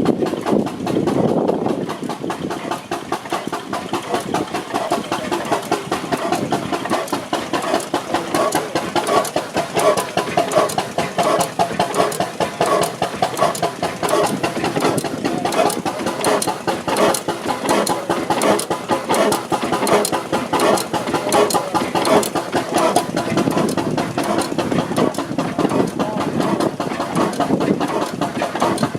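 Hornsby & Sons portable stationary engine running steadily, with an even, rhythmic beat.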